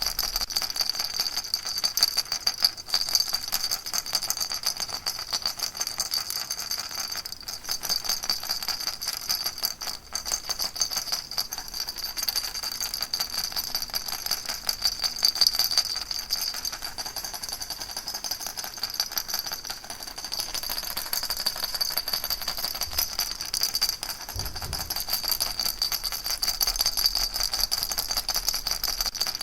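Baby rattle shaken continuously: a dense, fast rattling with a bright ring, swelling and easing in loudness without stopping.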